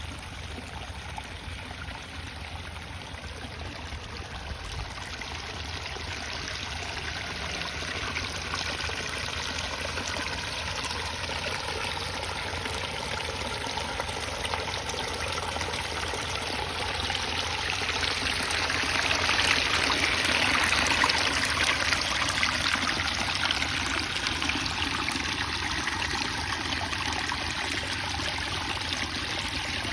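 Garden pond waterfall: a steady rush of water splashing into the pond, growing louder to a peak about two-thirds of the way through, then easing slightly.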